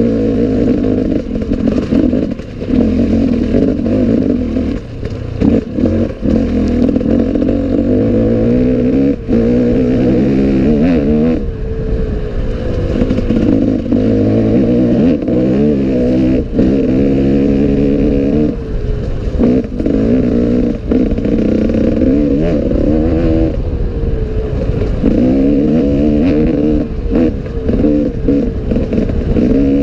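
Enduro motorcycle engine being ridden hard, its revs climbing and dropping constantly, with scattered knocks and clatter.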